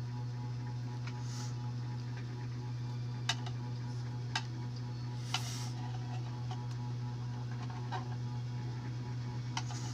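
A steady low hum, with a few sharp clicks or taps: three about a second apart in the middle, then fainter ones near the end.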